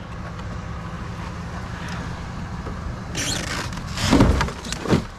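Steady low rumble of a running vehicle, then, a little over three seconds in, a cluster of clattering and knocking as items in a curbside trash pile are rummaged through and moved. The clatter is loudest about four seconds in.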